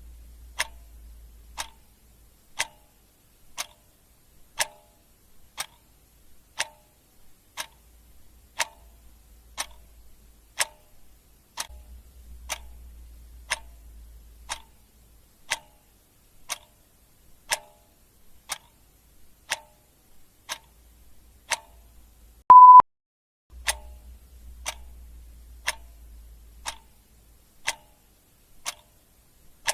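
Clock ticking steadily, about one tick a second. About three-quarters of the way through, a short, loud single-pitched beep sounds once.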